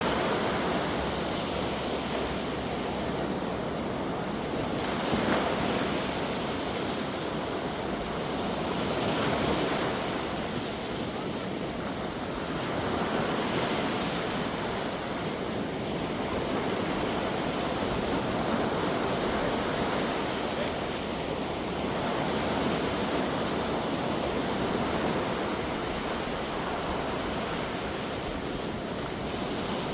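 Sea waves washing onto a beach in a steady surf noise that swells every few seconds, with a breeze blowing.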